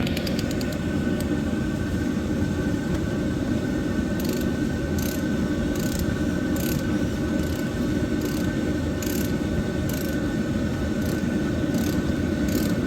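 Socket ratchet clicking as the oil filter housing cap is wound in with a 27 mm socket. It gives a quick run of clicks at first, then a stroke about every 0.8 s, over a steady mechanical drone.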